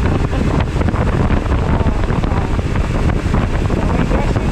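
Wind rushing over a motorcycle-mounted camera microphone while riding, a loud, steady rumble.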